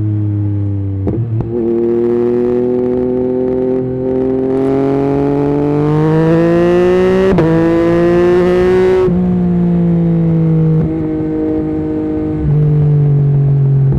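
Yamaha MT-09's inline-three engine through an Akrapovic carbon exhaust with the dB killer removed, out on the road. From about four seconds in, the pitch climbs hard under acceleration with a brief break at a gear change, while wind rush grows. It drops suddenly as the throttle closes about nine seconds in, then runs steadily at lower revs.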